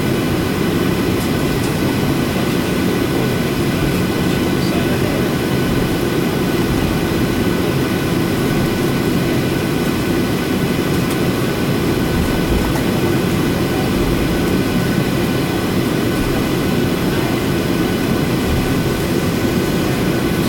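Steady engine noise inside a Boeing 737-800 cabin: the CFM56 turbofans' even rumble with several high whining tones held at a constant pitch.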